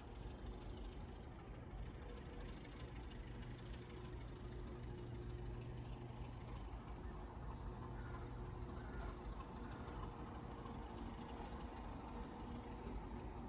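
Diesel engine running steadily at a constant speed, a low hum with a few steady higher tones over background noise.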